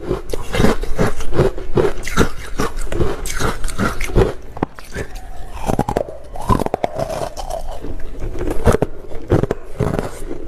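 Close-up crunching and chewing of ice, a quick run of crackly bites and chews, about three a second.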